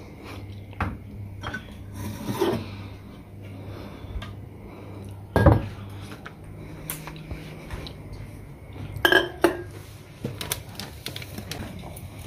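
Dishes and cutlery clinking and being set down: scattered light knocks, a louder knock about halfway and a short clatter of several knocks near the end, over a steady low hum.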